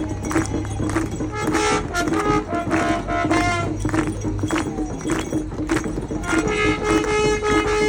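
Mapuche ceremonial music: a steady kultrun drum beat with long held, horn-like tones sounding over it, strongest near the end.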